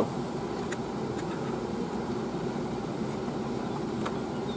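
Steady low background noise, like a machine running, with a few faint light clicks.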